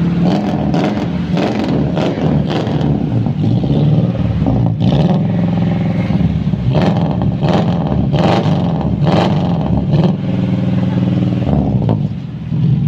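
Toyota Kijang engine breathing through an aftermarket dual exhaust with header and HKS Hi-Power mufflers, idling and revved in a series of short throttle blips, about a dozen, clustered in the first few seconds and again through the middle.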